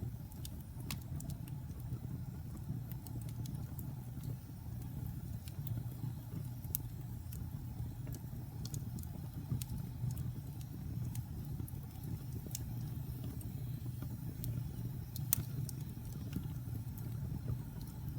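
Wood fire burning in a fireplace: a steady low rumble of flames with scattered sharp crackles and pops from the logs, one louder pop about three-quarters of the way through.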